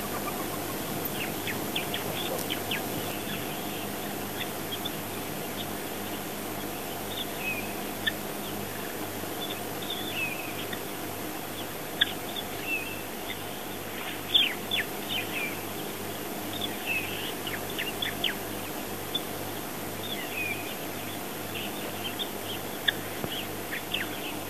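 Several birds give short chirps and quick whistled calls, scattered irregularly throughout, over a steady low hum.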